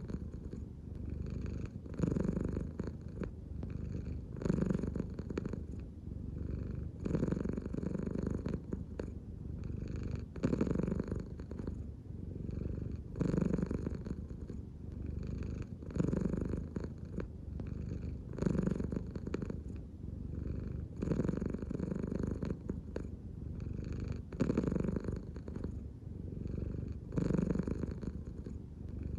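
American Shorthair cat purring continuously, the purr swelling and easing with each breath about every two and a half seconds as she breathes from the belly.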